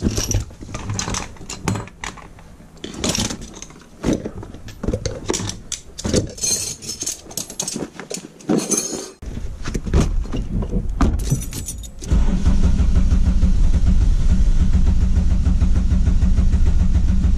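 Tools and gear being handled and packed into a bag, with clinks, clicks and rustling. About twelve seconds in, a car engine turned by the ignition key sets in with a loud, steady, even sound.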